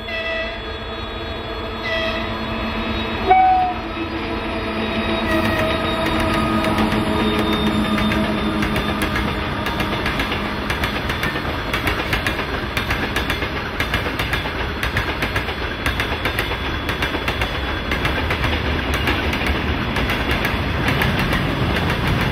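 2TE116 twin-section diesel locomotive hauling a freight train past: three short horn toots in the first few seconds, the third the loudest, over the steady drone of its diesel engines. From about six seconds in, the wagons' wheels clatter rhythmically over the rail joints as the train rolls by.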